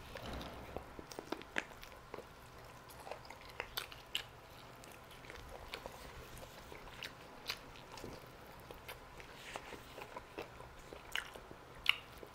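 A person biting into and chewing roasted chicken drumsticks, heard as many irregular short clicks and mouth smacks.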